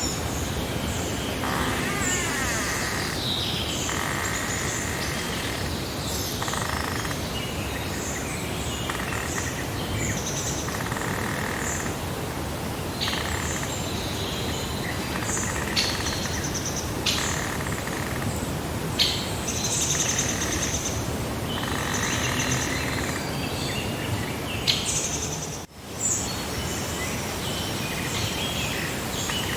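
Many birds chirping and singing in short repeated phrases over a steady background hiss. The sound drops out for a moment near the end.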